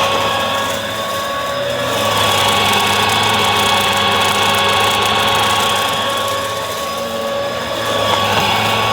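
Bissell vacuum cleaner running steadily with a motor whine and rushing air. The sound dips slightly and swells again over a few seconds as the brushroll or open hose is worked.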